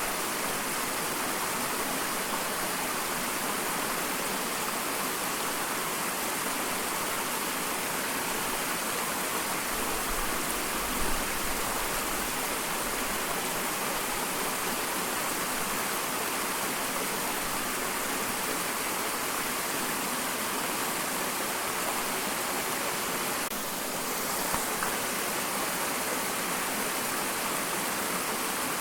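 Small waterfall: water falling and splashing in a steady, even rush, with little deep rumble.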